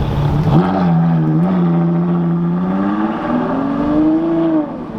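Car engine running under throttle as the car pulls past. Its pitch jumps and dips briefly about half a second in, holds steady, then climbs over about two seconds and falls off just before the end.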